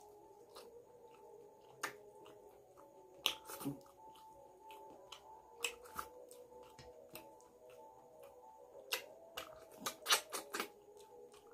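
Close-miked eating sounds: chewing and lip smacks on a mouthful of rice and chicken curry eaten by hand, heard as irregular sharp clicks, with the loudest cluster about ten seconds in.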